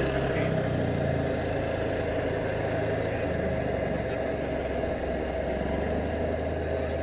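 An engine idling steadily, a low, even hum with a faint noisy hiss over it.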